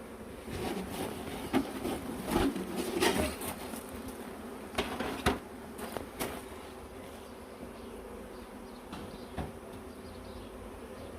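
Honeybees buzzing in a steady hum around an open hive, with several sharp wooden knocks from the hive box and frames being handled, mostly in the first six seconds.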